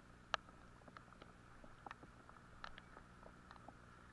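Faint scattered ticks of raindrops striking an Eken H9R action camera's waterproof housing, one sharper tick about a third of a second in, over a faint steady hum.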